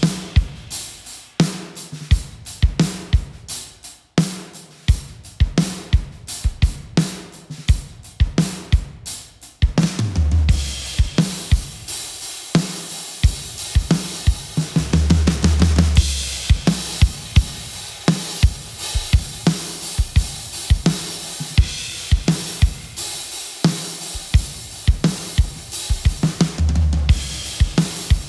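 Drum kit playing a steady groove of kick, snare, hi-hat and cymbal strikes with occasional deep booming low notes. About ten seconds in, the cymbals thicken into a continuous wash.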